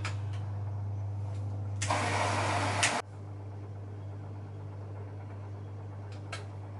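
Bosch Maxx WFL 248Y front-loading washing machine running a wash, with a steady motor hum. A loud rushing swish from the drum lasts about a second, then the drum motor stops about three seconds in, leaving a quieter background with a couple of clicks near the end.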